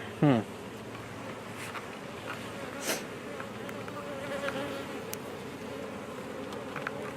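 Honey bees buzzing steadily around an open hive. Just after the start a loud buzz drops sharply in pitch as a bee passes close by. There is a single sharp click about three seconds in.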